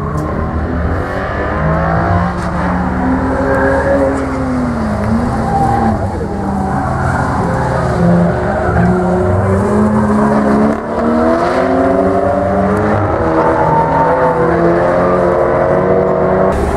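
Two cars' engines revving hard on a racing circuit, their pitch climbing and falling over and over as they accelerate and lift through the corners.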